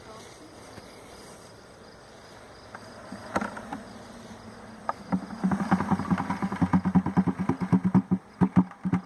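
Honey bees from a freshly captured swarm buzzing, faint at first; from about five seconds in, bees buzz close to the microphone in a loud, fast-pulsing drone.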